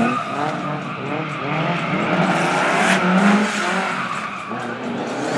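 Several racing car engines revving and changing pitch, with tyres skidding. A short sharp knock comes about three seconds in.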